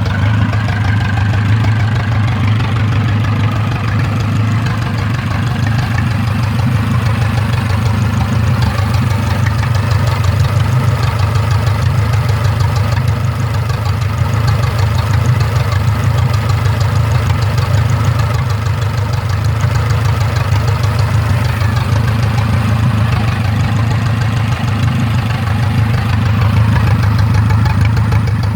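L-12 engine running steadily at idle, an even rapid firing with no change in speed.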